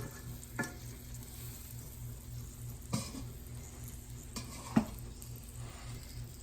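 Chicken pieces frying in olive oil in a preheated skillet, a faint steady sizzle, with a few short sharp knocks of kitchenware, the loudest a little before five seconds in.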